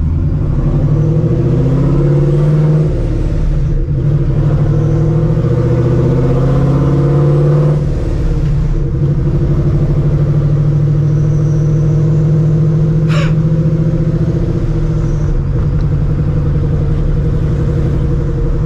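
Supercharged Ford 4.6-litre two-valve V8 of a Mustang GT running through open exhaust dumps off a catless X-pipe, with no mufflers or resonator, heard from inside the car. It climbs in pitch twice in the first eight seconds, with a drop between that suggests a gearshift, then settles into a steady, deep drone while cruising.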